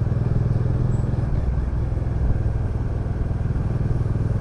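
Bajaj Dominar 400's single-cylinder engine running steadily at cruising speed, a fast even pulse under road noise.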